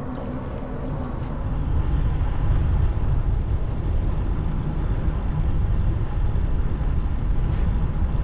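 Wind buffeting the microphone of a riding cyclist, a steady low rumble mixed with road noise, growing louder about a second and a half in.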